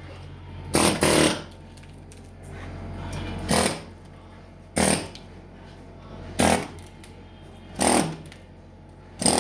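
Pneumatic air-hammer muffler tool firing in short bursts as it strips bark from a pine post: about six bursts, roughly one every one and a half seconds, the first a quick double. A steady low hum runs between the bursts.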